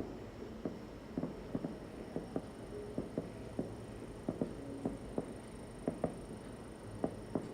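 Fireworks going off in an irregular run of small, sharp pops, about two or three a second.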